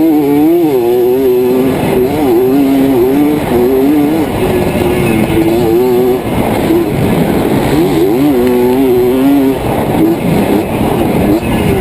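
Yamaha two-stroke dirt bike engines running hard, the engine note rising and falling again and again as the throttle is opened and closed.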